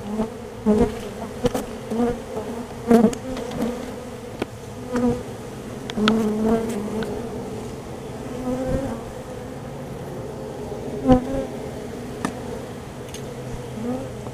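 Honey bees buzzing steadily in a close mass around an opened colony, with scattered clicks and knocks, the loudest about eleven seconds in.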